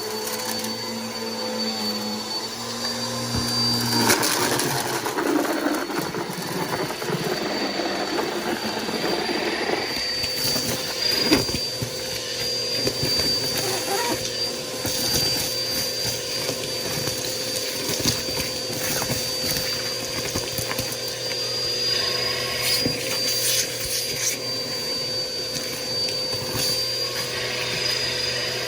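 Bissell PowerForce Helix upright vacuum running steadily with a high whine, with scattered clicks and rattles from time to time.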